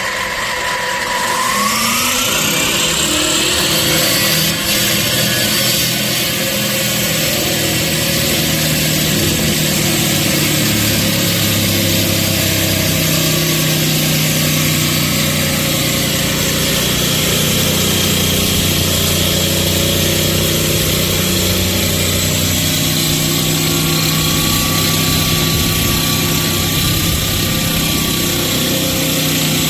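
A 260 mm electric concrete cutting saw running steadily at full speed after its motor finishes spinning up in the first couple of seconds. It gives a constant loud hum with a high whine.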